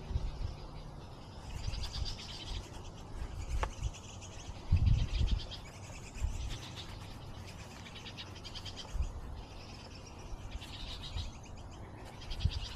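Small birds calling in bursts of rapid, high beeping notes that come every second or two, the insistent calling of young birds begging for food. Low rumbling runs underneath, with one louder low bump about five seconds in.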